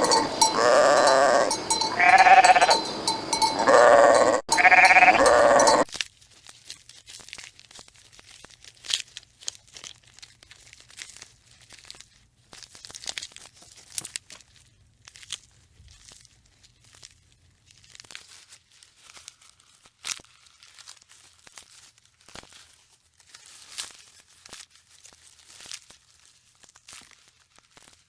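Repeated bleating, several loud calls in quick succession, stopping about six seconds in. It is followed by faint, irregular crunching and crackling.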